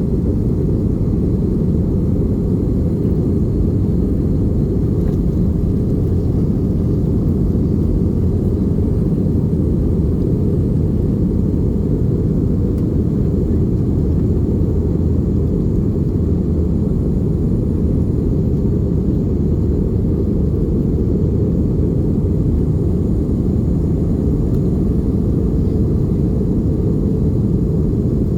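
Steady low rumble inside the cabin of an Airbus A320 airliner: engine and airflow noise, unchanging throughout.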